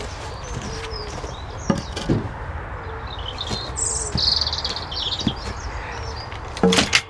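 Small birds chirping over a steady low outdoor background, with a few sharp knocks and thuds. The loudest knocks come in a quick cluster near the end.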